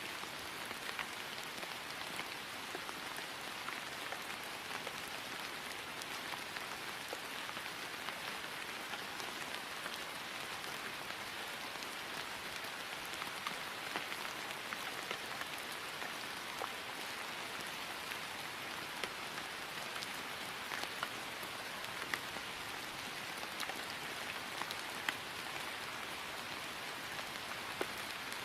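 Steady rain falling on grass, an even patter with scattered individual drop ticks.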